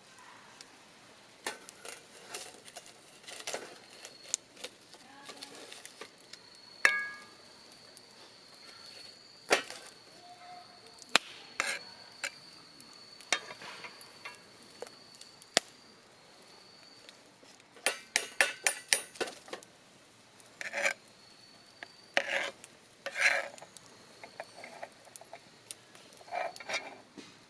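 Camp cooking handling sounds: metal utensils and cookware clinking and knocking at irregular intervals, with a quick run of about eight taps in a second just past the middle. A faint steady high tone runs through the first half.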